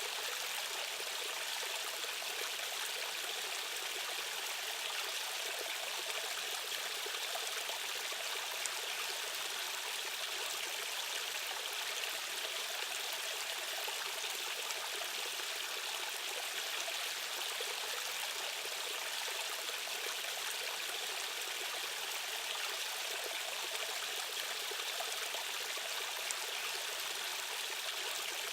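Stream of water rushing steadily over rocks, an even, unbroken splashing with little low rumble.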